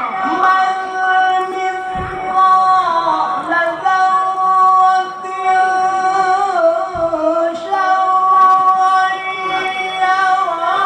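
A male qari reciting the Quran in the melodic tilawah style, holding long, high, ornamented notes with slow turns in pitch.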